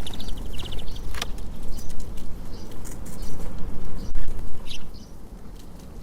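Birds at a feeder over a constant low rumble: a quick run of high chirping notes in the first second, a sharp tap just over a second in, and a short high call near five seconds.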